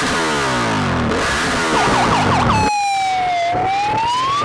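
Synthesized siren-like sound effect: falling sweeps of stacked tones with a quick warble, then a single pure tone that dips and rises again.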